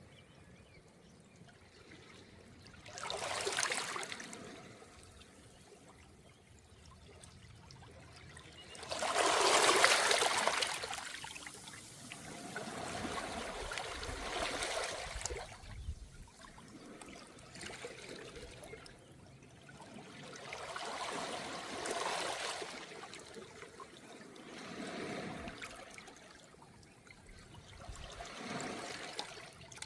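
Small, calm waves washing up and back over a beach of smooth round pebbles, one wash every few seconds, the loudest about ten seconds in.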